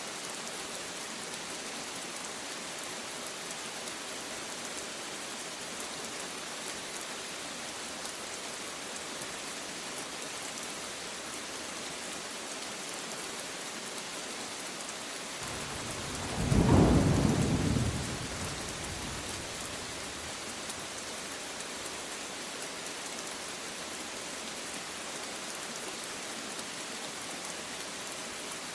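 Steady rain falling, with one rumble of thunder that swells about halfway through, peaks briefly and fades away over a few seconds.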